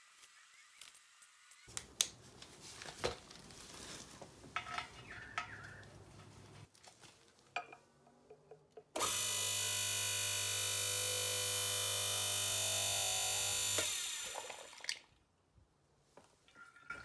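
An electric motor starts abruptly and runs steadily at an even pitch for about five seconds, then is switched off and winds down. Before it there are scattered clicks and knocks of handling.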